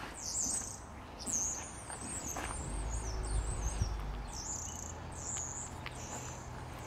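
Small birds chirping, a steady string of short, high calls. A low rumble comes in for a second or two around the middle.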